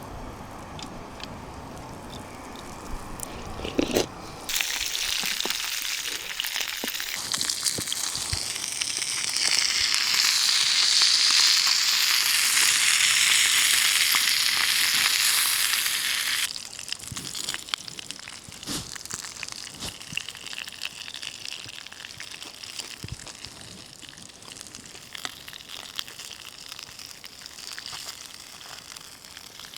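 Fish sizzling in a frying pan over a campfire. The sizzle starts suddenly about four seconds in, is loudest around the middle, and cuts off abruptly past halfway. After that a quieter sizzle with scattered crackles continues.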